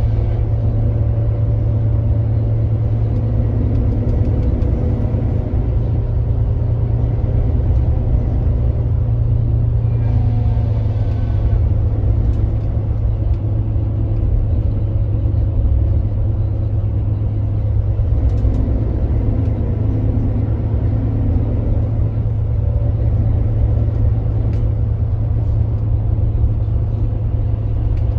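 Kia Granbird Sunshine coach's diesel engine running steadily under way, a constant low drone with road noise over it.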